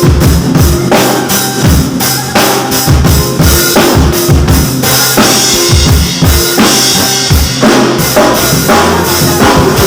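Drum kit played to a song's backing track: kick and snare hits with rimshots in a steady rhythm over a bass line.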